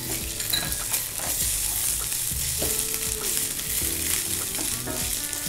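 Onions, chillies and freshly added ginger paste sizzling in hot oil in a wide shallow pan, stirred with a spatula that scrapes and knocks against the pan now and then.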